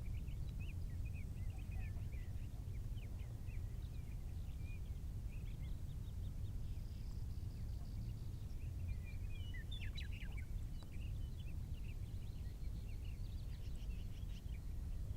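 Small birds chirping and twittering in quick, scattered calls, busiest about two-thirds of the way in, over a steady low rumble.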